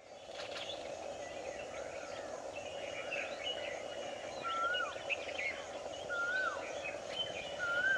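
Birds calling over a steady background hiss. Scattered short chirps are joined, from about midway, by one bird repeating a short whistled call that rises briefly and then falls, about every one and a half seconds.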